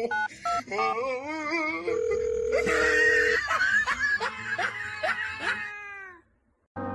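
A steady electronic beep of about a second and a half, then a run of quick, high, falling laughs that stop abruptly about a second before the end.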